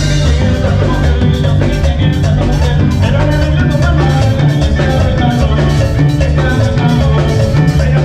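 Live cumbia band playing an instrumental stretch of a medley, with a strong bass line under steady drums and percussion keeping the dance beat.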